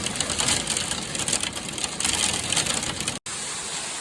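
Hailstones pelting a hard surface in a dense, rapid clatter. The sound cuts out briefly just past three seconds and then goes on as a steadier hiss.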